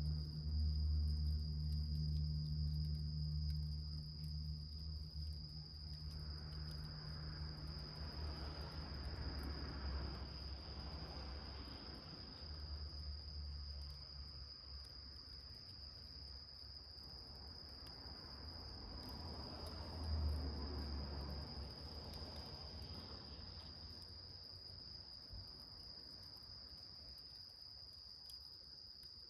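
Crickets trilling in one steady, unbroken high tone. A low rumble underneath fades away over the first half, with a brief swell about twenty seconds in.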